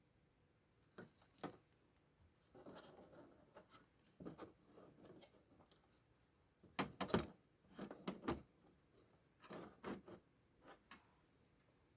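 Scattered clicks, taps and rustling of parts and tools being handled during reassembly of a flat-screen TV, with a few sharper knocks about seven and eight seconds in.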